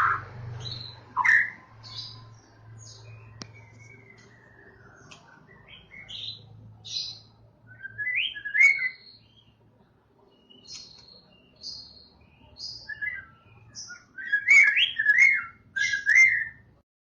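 White-rumped shama (murai batu Medan) singing: a varied string of whistles, chirps and quick rising and falling phrases, thinning to a near pause about ten seconds in, then picking up into a busier run of loud phrases near the end.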